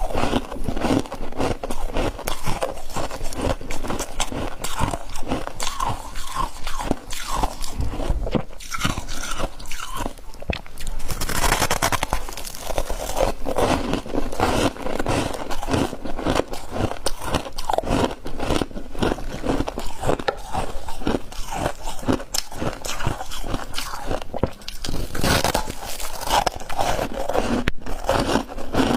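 A mouth crunching and chewing chunks of ice, bite after bite in quick, uneven succession.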